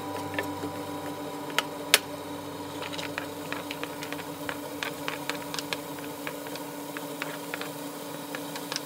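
Chopped garlic and onion frying in oil in a nonstick pan, giving scattered small crackles and pops as a wooden spoon stirs, with one sharper click about two seconds in, over a steady faint hum.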